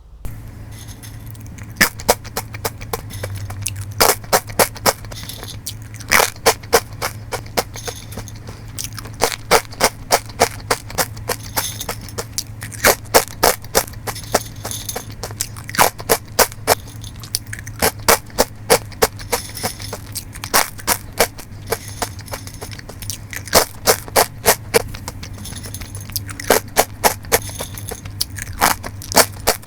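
Close-miked chewing of honey mustard cashew nuts: runs of sharp crunches, several a second, broken by short pauses between bites, over a faint steady hum.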